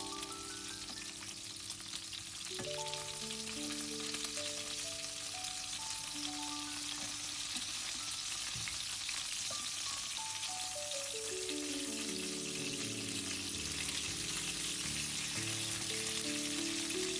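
Chicken and vegetable cutlets frying in a pan, a steady sizzle, under background music with a slow run of held notes.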